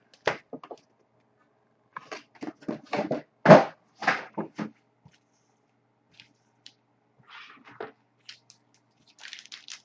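Hockey card packaging being opened by hand: wrappers and cardboard crinkling and rustling in irregular bursts. The loudest burst comes about three and a half seconds in, with a quieter cluster near the end.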